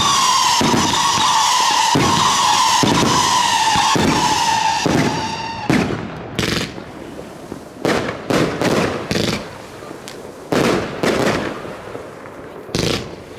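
Fireworks firing in a steady rhythm of sharp shots about every half second, with a continuous high whistle over them that sinks slightly in pitch. The whistle stops about five and a half seconds in, and separate loud bangs and crackles follow.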